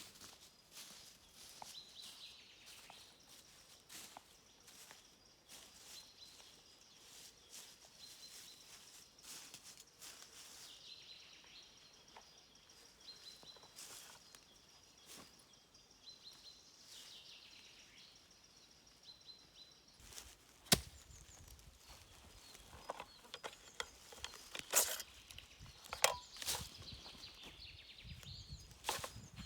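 Quiet outdoor ambience with faint, repeated bird chirps and a faint steady high hum. In the last third come a handful of sharp knocks and clicks, the loudest about two-thirds of the way in.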